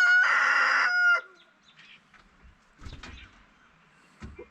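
Rooster crowing: the loud, drawn-out end of a crow that cuts off about a second in, followed by a couple of faint low thumps.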